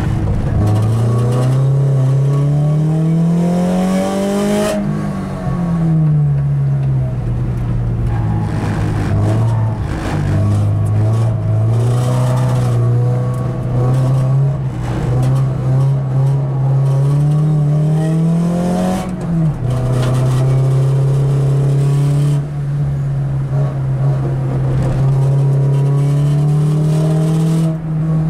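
Car engine heard from inside the cabin while lapping a race track: the revs climb for about four seconds, fall back, then climb again for about five seconds before dropping suddenly and holding nearly steady.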